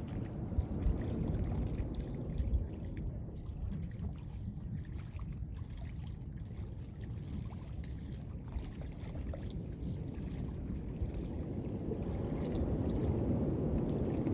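Ocean surf washing on the beach: a steady low rumble of waves that eases off in the middle and swells up again near the end.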